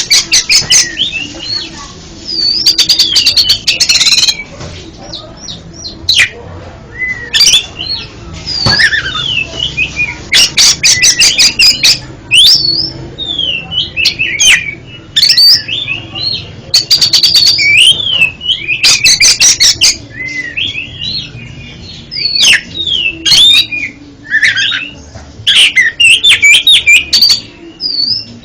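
Oriental magpie-robin (kacer) singing continuously: a varied run of bending whistled notes, broken every few seconds by rapid harsh rattling bursts.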